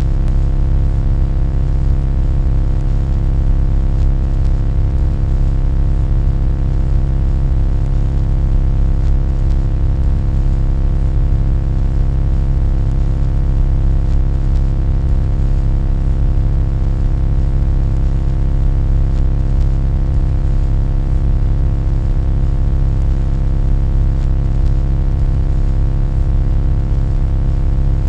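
A loud, steady low hum with a deep rumble and many fixed overtones above it, unchanging throughout.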